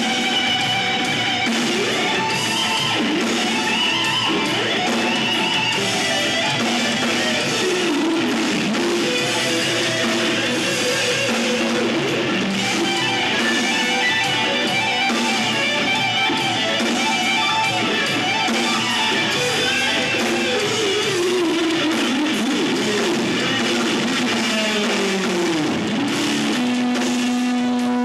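Live rock band playing, led by electric guitar with bent and sliding notes over a steady full-band backing.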